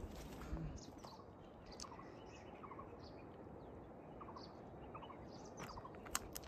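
Faint, scattered short bird chirps over low outdoor background noise.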